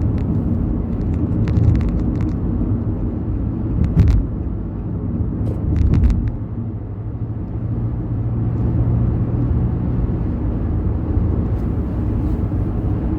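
Steady low drone of a car moving, engine and road noise as heard from inside the car, with a few scattered clicks and knocks, the loudest about four seconds in.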